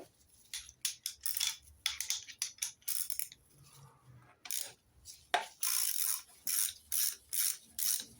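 Socket ratchet clicking in steady back-and-forth strokes, two to three a second, from about five and a half seconds in, working a nut loose. Before that come scattered metallic clinks and scrapes of tools against the engine.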